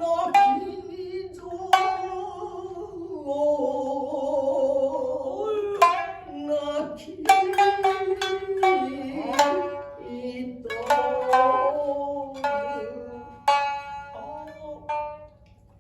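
Shinnai-bushi jōruri: a voice chanting in long, wavering held notes over two shamisen, the main shamisen and the higher-pitched uwajōshi, plucking sharp notes. The music thins out near the end.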